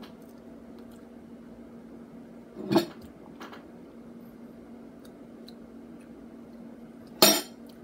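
A person chewing a bite of BBQ jackfruit, over a steady background hum, with two short, louder sounds about three seconds in and near the end.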